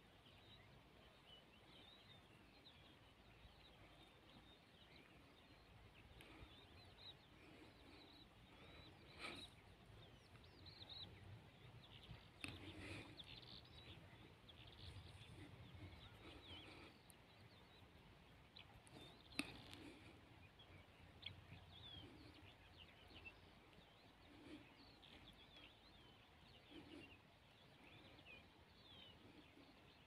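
Near silence with faint bird chirping in the background throughout, and a few soft knocks.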